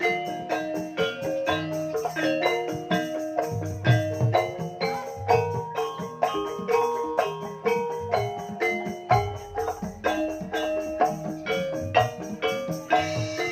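Gamelan music without singing: mallet-struck keyed instruments play a quick, steady run of ringing notes, with occasional low hand-drum strokes underneath.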